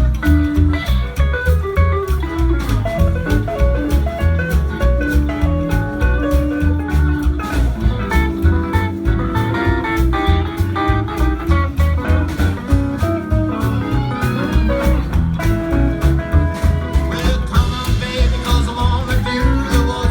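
Live band playing an instrumental break in a swing-style boogie, with a guitar carrying the melody over a steady bass and drum beat.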